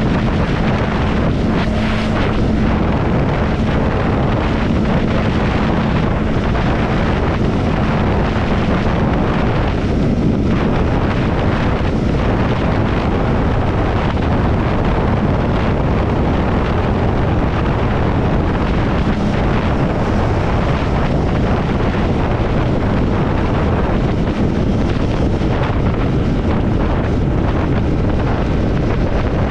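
Triumph Scrambler 400 X's single-cylinder engine running at a steady road speed, its hum held steady for about the first ten seconds, under heavy wind rushing over the microphone.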